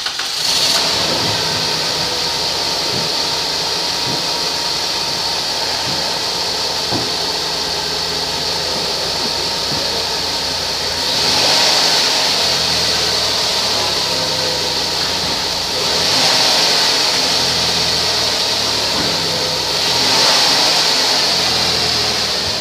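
2006 Dodge Grand Caravan V6 engine catching just as it starts, then idling steadily. It is revved three times, about 11, 16 and 20 seconds in, each rise lasting a few seconds before it settles back to idle.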